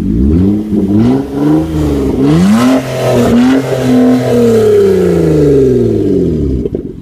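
Loud revving of a 2006 Hyundai Sonata's V6 through an open exhaust with the mufflers, resonator and catalytic converter removed. The engine note climbs and drops in a few quick blips, is held high for a moment, then falls slowly back to idle near the end.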